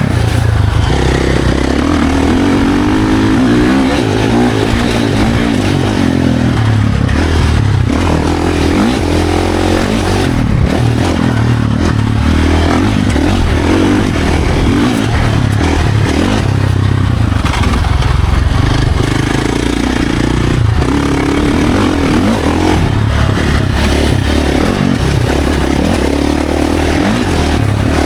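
Dirt bike engine revving up and down over and over as it is ridden hard, over a heavy low rumble of wind.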